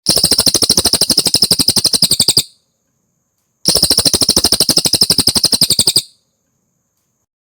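Cililin songbird singing two rapid trills of sharp, evenly repeated high notes, each about two and a half seconds long, with a pause of about a second between them.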